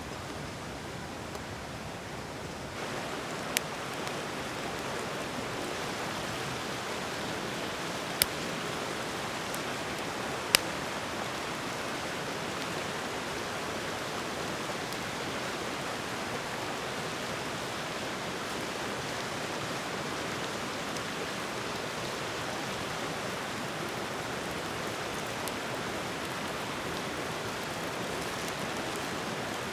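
Wood fire burning in a campfire pit: a steady hiss with three single sharp pops, the hiss growing a little louder about three seconds in.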